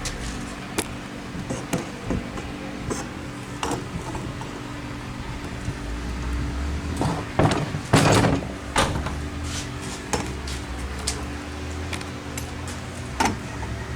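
Scattered clicks and knocks of engine parts and tools being handled on a workbench, with a louder scraping, rattling burst about seven to eight seconds in. A steady low hum runs underneath.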